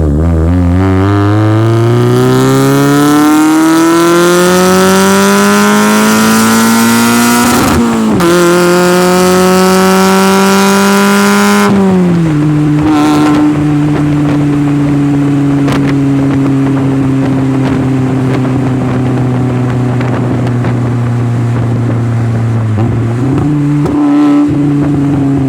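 Mazda Miata 1.6-litre four-cylinder engine breathing through aftermarket headers and an ISR exhaust, pulling hard under acceleration with its pitch climbing for about eight seconds. A quick upshift follows, then another pull to about twelve seconds before the driver lifts off. It settles into a steady lower cruise, with a short rise in revs near the end.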